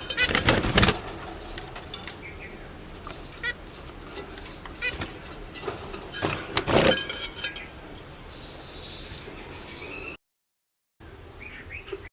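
Doves moving in their cage: clattering and fluttering, loudest about half a second in and again after six seconds, with smaller clicks between. A faint steady, pulsing high whine runs underneath.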